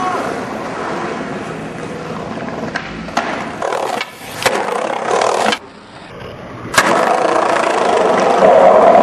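Skateboard wheels rolling, with a few sharp clacks of the board. About two thirds of the way through, the rolling cuts out for about a second, then comes a hard clack of the board landing and the wheels roll on louder.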